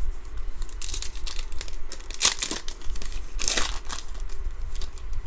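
A foil trading-card pack wrapper being torn open and crinkled, in a few short rustling bursts.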